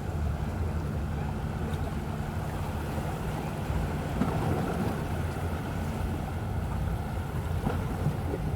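Steady low rumble of the Carnival Magic cruise ship's engines and machinery as she gets under way, with wind buffeting the microphone.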